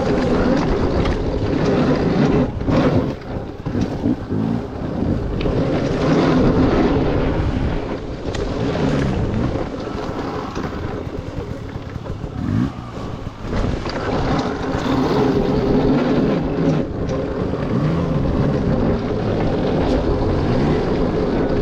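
Dirt bike engine running as the bike is ridden along a trail, its pitch rising and falling with the throttle, with wind rumbling on the microphone.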